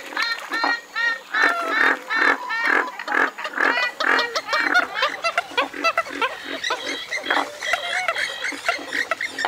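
Western swamphen calling: a rapid run of short calls, several a second, each rising and falling in pitch.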